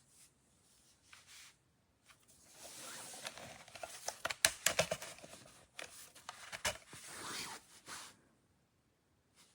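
Handling noise: rustling and scraping, like packaging or plastic being moved about, with a quick run of sharp clicks and knocks in the middle.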